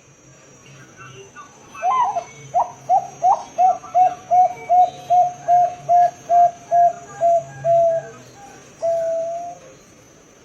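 Zebra dove (Bangkok-type perkutut) singing: a few rising opening notes, then a quick run of about a dozen short, even coos at roughly three a second, ending on one longer held coo. A faint steady high-pitched whine runs underneath.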